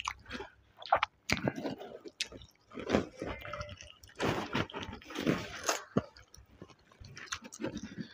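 Close-up sounds of a man eating mutton curry and rice by hand: chewing and biting mouthfuls, with irregular wet clicks and short crunchy noises.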